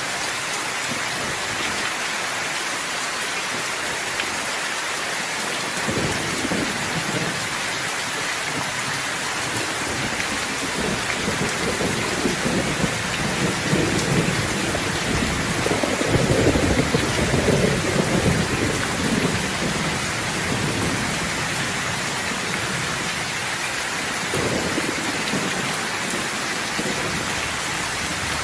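Steady rain hissing throughout, with thunder rolling in low rumbles that swell and fade; the loudest rumble comes about halfway through, and a shorter one follows near the end.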